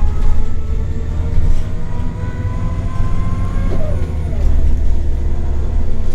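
A Scania L94UB bus's OCS9 compressed-natural-gas engine and drivetrain heard from on board while the bus is driving: a heavy low rumble with whining tones. The whine climbs slowly in pitch, then breaks off and shifts about four seconds in.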